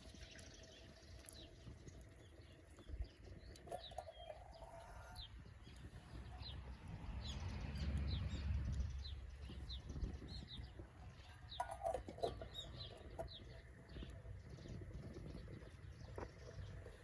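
Small birds chirping: many short, high, falling chirps repeated through, with a couple of lower calls, and a low rumble swelling and fading in the middle.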